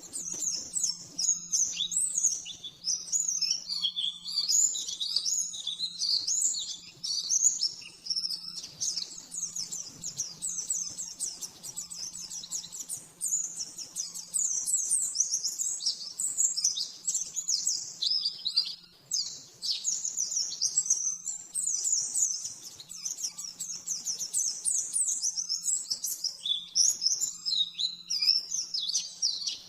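White-eye (pleci) singing a rapid, unbroken stream of high-pitched twittering notes, the fast 'nembak' song style used as a tutor recording for caged birds, over a faint steady low hum.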